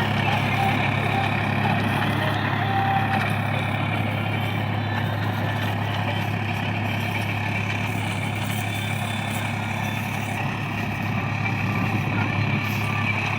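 Tractor engine running at a steady speed, a constant low drone with no revving.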